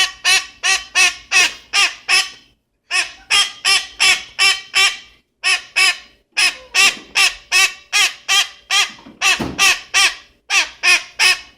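Cherry-headed conure calling: quick strings of short, pitched calls at about three a second, in runs of several calls with brief pauses between, in the same rhythm as its repeated "up, up, up".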